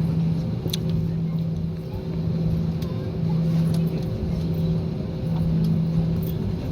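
A vehicle engine running steadily, its low hum pulsing about once a second, with a few faint clicks.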